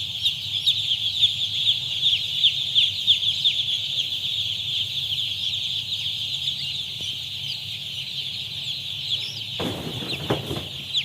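Thousands of day-old broiler chicks peeping together: a dense, continuous chorus of short, high, falling cheeps. A steady low hum runs underneath, and a brief rustling noise comes about a second before the end.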